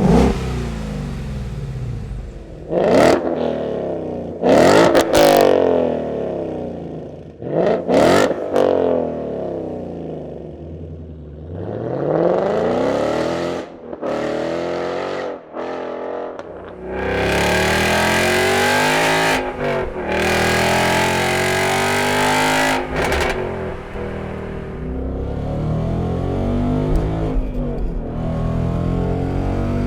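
Ford Mustang GT's 5.0 V8 through a Borla ATAK stainless cat-back exhaust with an X-pipe, very loud. Several quick sharp revs in the first ten seconds, then longer, higher revs from about halfway through.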